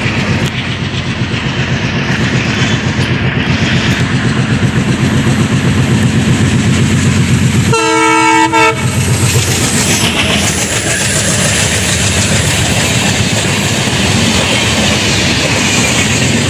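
Express train passing at speed behind twin WDM-3A diesel locomotives, with a loud rhythmic rumble and wheels clattering over rail joints. About halfway through the locomotive horn sounds one short blast of several tones together.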